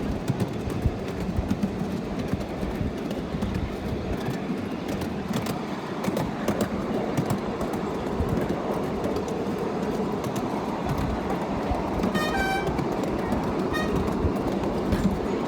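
Miniature ride-on train running along its track, a steady rumble with clicks from the wheels. About twelve seconds in, a short horn toot sounds, with a fainter short toot soon after.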